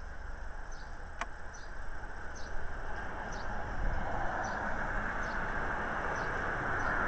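A small bird repeating one short, high, falling chirp a little under once a second, over a rushing background noise that grows louder from about halfway through.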